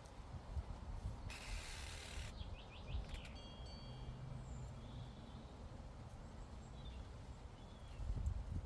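Outdoor meadow ambience with wind rumbling on the microphone. About a second in there is a one-second burst of hiss, followed by a bird's few quick chirps. A faint low drone runs through the middle.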